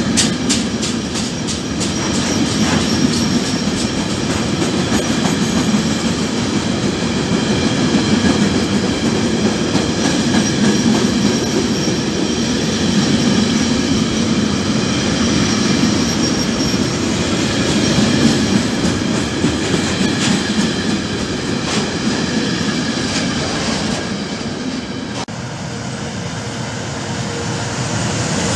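Freight train of covered sliding-wall wagons rolling past at speed: a steady rumble of wheels on rail, with regular wheel clicks over the rail joints and thin steady squealing tones. About 25 seconds in it cuts off, and the quieter sound of another passing freight train builds up again.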